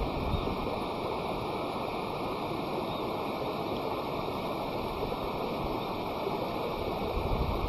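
Steady rushing sound of flowing water.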